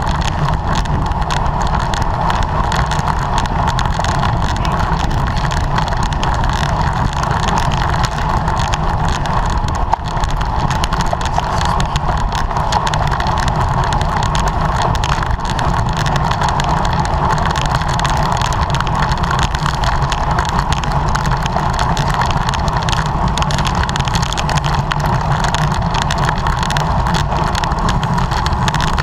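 Steady rush of wind and road noise on the camera of a racing bicycle riding at speed, with a strong low rumble throughout.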